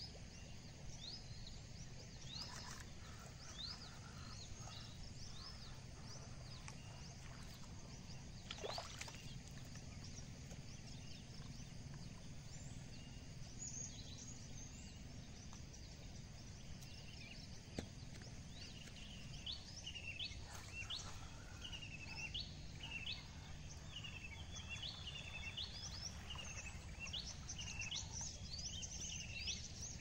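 Wild birds chirping and calling in short, quick repeated notes, thickest in the last third, over a steady low background rumble.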